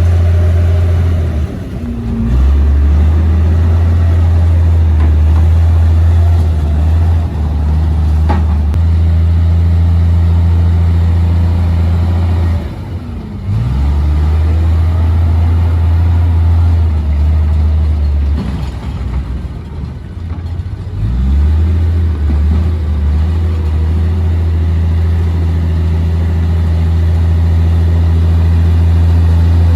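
Komatsu D58P bulldozer's diesel engine running hard under load, its low note dropping off briefly a few times and picking back up as the dozer works.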